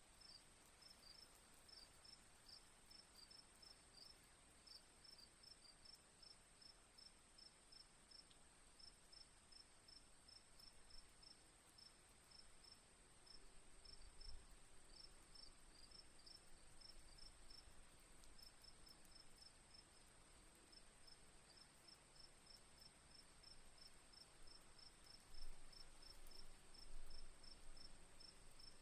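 Crickets chirping faintly in quick, regular groups of high pulses over a steady high-pitched insect trill. A few soft low thumps come in about halfway through and again near the end.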